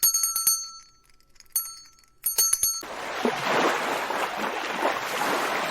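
A small bell rings in a few quick clusters of strikes, then a steady rushing noise takes over from about three seconds in.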